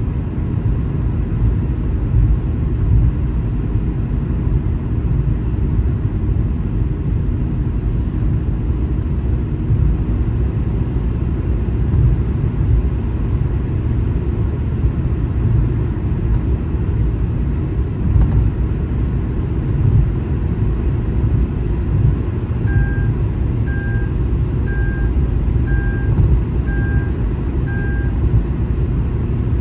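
Steady low rumble of a car travelling on a highway. Near the end come six short beeps, about one a second.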